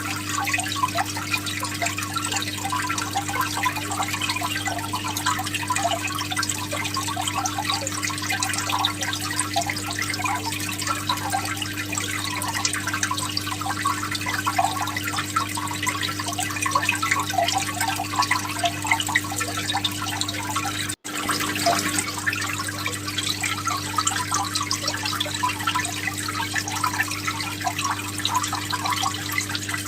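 Aquarium water bubbling and trickling steadily over a constant low hum from its pump. The sound briefly cuts out about two-thirds of the way through.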